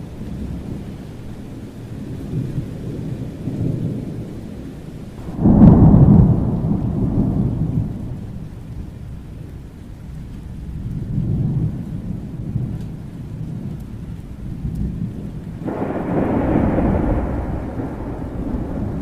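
Thunderstorm: rain falling under a steady low rumble of thunder. A loud peal breaks suddenly about five seconds in and rolls away over a few seconds, and another peal rolls in near the end.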